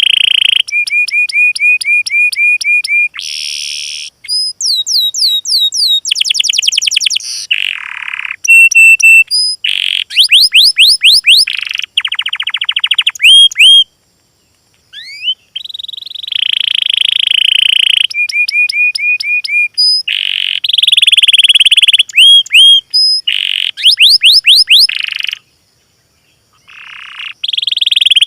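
Small songbirds singing, a clean tutor recording for training captive birds: fast high trills, rapid runs of rising sweeping notes and repeated chirps, in bursts of a second or two with two short breaks.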